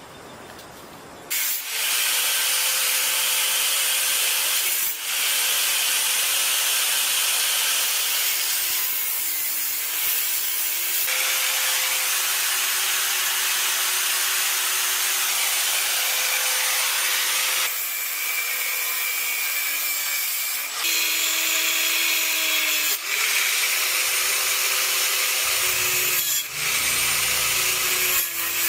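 A power tool starts up about a second in and runs hard against material. A steady whine sags in pitch under load, and there are a few brief pauses.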